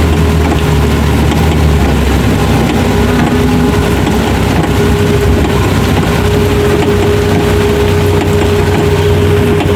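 Suzuki off-road 4x4's engine running steadily on a muddy trail, a low drone with a steady whine over it.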